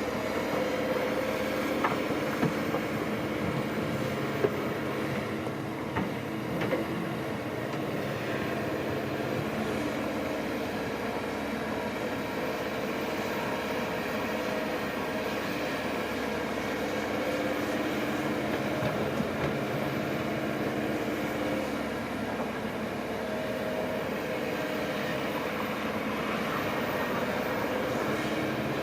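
Heavy earthmoving machinery running steadily, with a diesel engine hum and a few sharp metallic knocks in the first several seconds.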